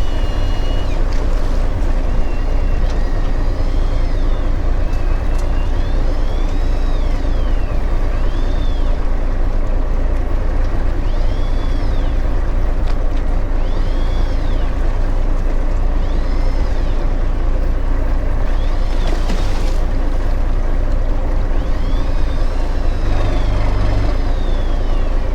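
Fishing boat's engine running steadily and loudly. Faint squeaks rise and fall in pitch every couple of seconds above it.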